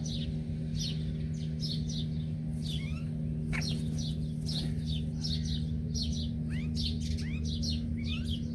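Small birds chirping: a run of short, high, falling notes, about one or two a second, with a few rising slurred calls among them. A steady low hum runs underneath.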